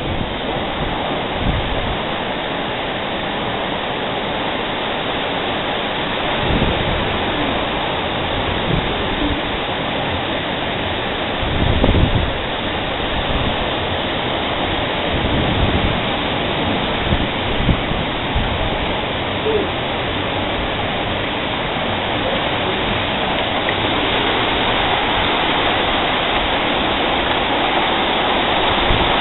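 Heavy thunderstorm rain falling steadily, with a couple of low rumbles about six and twelve seconds in.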